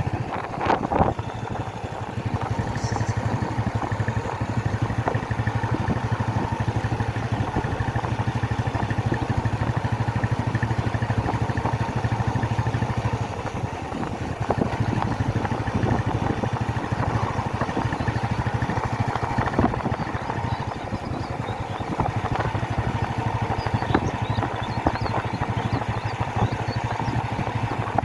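Motorcycle running steadily along a road, heard from the bike itself, with engine and road noise throughout.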